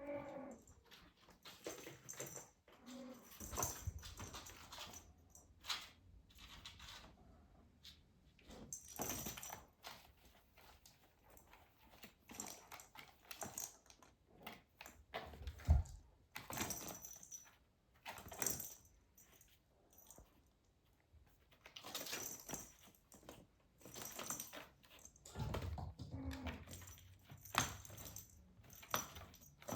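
Young British Shorthair kittens playing with toys: irregular rustling, light clicks and knocks, and a louder thump about halfway through.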